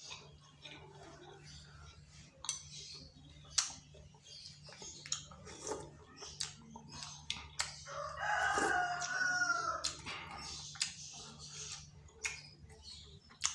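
Eating sounds, scattered sharp clicks of spoon on bowl and chewing, with a rooster crowing once in the background about eight seconds in, one call of about two seconds that falls at the end.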